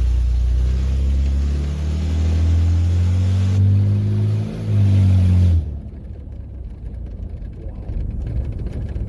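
1995 Ford F-150's V8 running on open exhaust manifolds with no exhaust pipes fitted: ridiculously loud as it accelerates, its note climbing, with a brief dip partway. About two-thirds of the way through the throttle comes off and it falls suddenly to a lower rumble.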